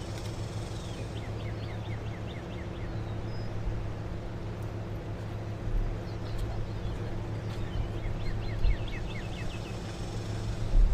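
A bird calling in quick runs of short, falling chirps, twice, over a steady low mechanical hum, with a few dull low thumps in the second half.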